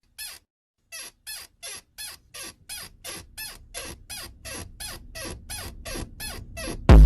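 A small animal squeaking: a quick run of short squeaks, each dropping in pitch, about three a second, growing louder and more frequent. Loud music with a heavy beat cuts in at the very end.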